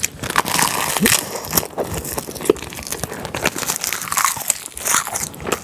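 Close-miked mouth sounds of biting into and chewing a wrap of rice and soy-marinated seafood in a sheet of laver, a dense run of short clicks and crackles.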